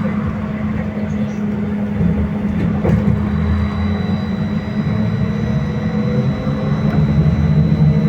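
BKM-321 trolleybus running, its electric traction drive whining steadily over the rolling noise, the whine rising slightly in pitch near the end as the trolleybus speeds up. A single short knock about three seconds in.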